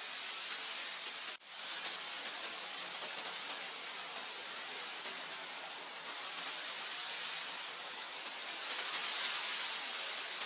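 Steady wind blowing across grassland, a hissing rush that swells near the end. It drops out for an instant about a second and a half in.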